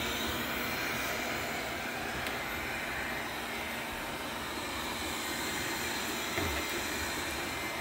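Lubluelu robot vacuum running: a steady rushing hum of its suction motor with the rotary brush and side brush turning as it cleans the floor.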